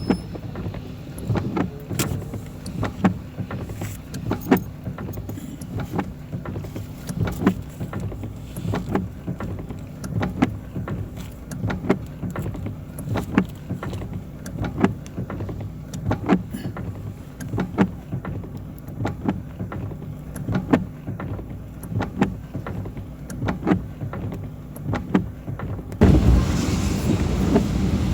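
Heard from inside a car's cabin, a steady low road and engine rumble with frequent irregular sharp ticks of rain striking the car. About two seconds before the end a louder hiss comes in abruptly.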